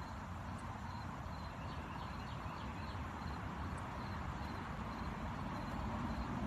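Steady outdoor background noise with a low rumble, and a string of faint, short high chirps through the first few seconds.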